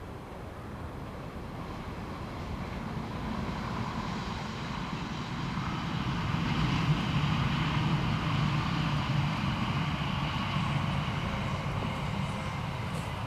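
Akita Shinkansen E6 series Komachi train passing: a steady rumble with running noise that builds over several seconds, is loudest a little past the middle, then eases slightly.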